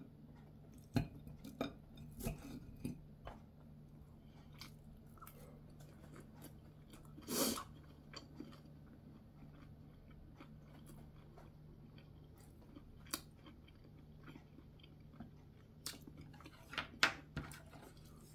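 Chewing of a mouthful of braised kimchi and fish, with scattered small clicks of chopsticks against dishes and one louder short noise about seven seconds in. A steady low hum runs underneath.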